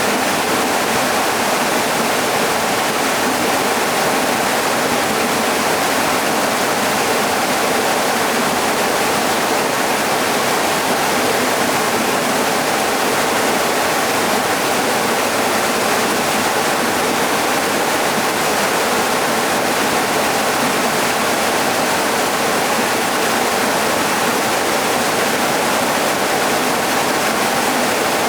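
Futatsu-daki waterfall pouring: a loud, steady, even rush of falling water.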